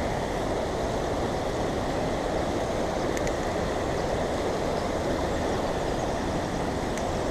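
Steady rushing of creek water: an even, unchanging noise.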